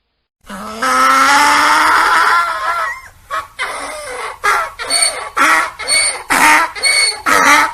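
Donkey braying: one long drawn-out call, then a steady run of loud hee-haw pulses, about two a second.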